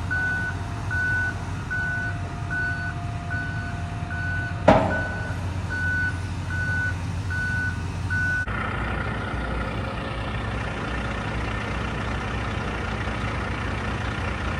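Heavy machine's backup alarm beeping about twice a second over a steady diesel engine rumble, with one sharp bang a little under five seconds in. The beeping stops about eight seconds in while the engine keeps running.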